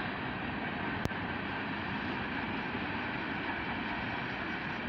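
Distant freight train running, a steady, even noise with no horn, and one sharp click about a second in.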